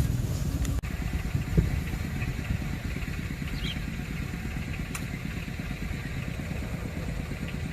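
A small engine running steadily, with a fast, even pulse of firing strokes.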